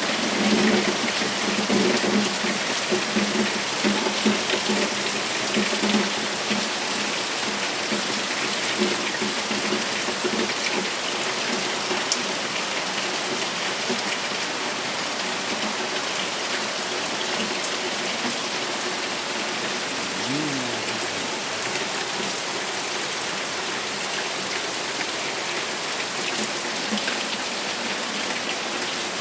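Heavy rain falling steadily, a dense even hiss of drops throughout. A brief low sound drops in pitch about twenty seconds in.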